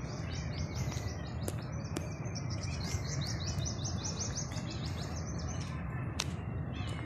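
Birds chirping in trees, a rapid run of short high notes repeated about five times a second, over steady low outdoor background noise, with a few sharp clicks.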